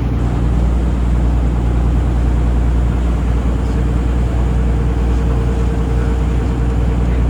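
Taxi boat's engine running steadily under way: a loud, even low drone. A faint higher tone joins it about halfway through.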